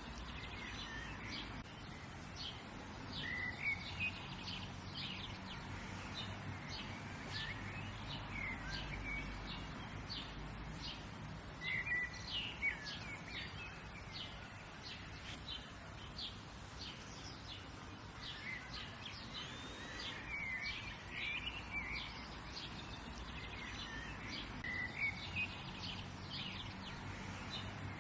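Several birds chirping and singing in short, repeated calls over a steady low background hum.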